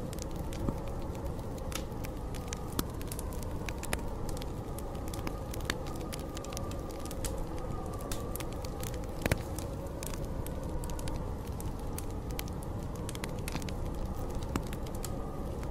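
Wood fire crackling, with irregular sharp pops, over a steady low rumble of storm wind and a faint wavering wind howl.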